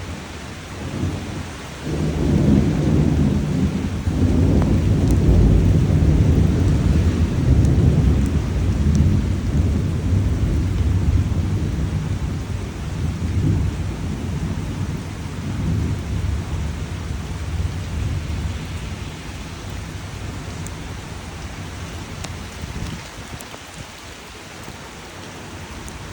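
A long roll of thunder over steady rain: the low rumble swells about two seconds in, stays loud for some ten seconds, then dies away, while the rain's hiss carries on.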